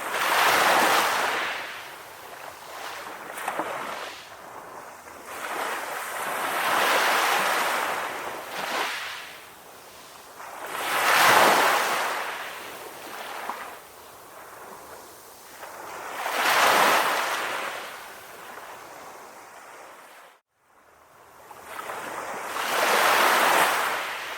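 Sea waves washing onto a shore: the surf swells and fades about five times, roughly five seconds apart. Near the end the sound cuts out to silence for a moment before the last wave.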